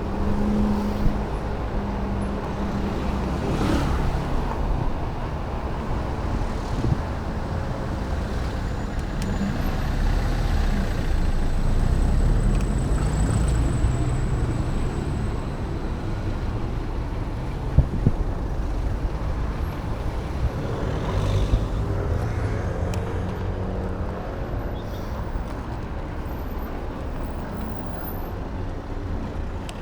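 Wind rumbling over an action camera's microphone and road noise from a moving e-bike, with a steady low rush and a few brief knocks.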